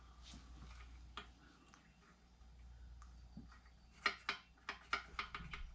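Small hand-handling clicks and taps from parts being worked on. A few faint ones come first, then a quick, uneven run of sharper clicks near the end, about five a second.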